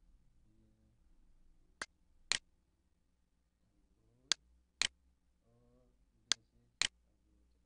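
Six short, sharp clicks in three evenly spaced pairs. The two clicks of each pair are about half a second apart, and a new pair comes every two seconds.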